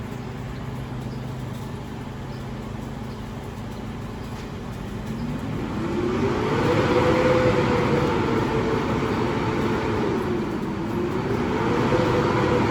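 Garbage truck's diesel engine idling steadily, then revving up and holding high about five seconds in, dipping briefly and revving up again near the end.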